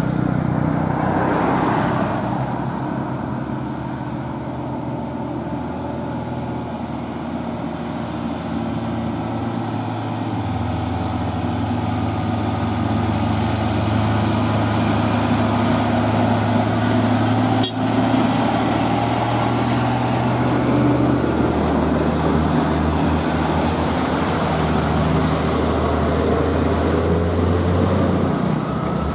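Heavy diesel truck engine running on the road, its low drone stepping to a new pitch a couple of times as the truck changes speed.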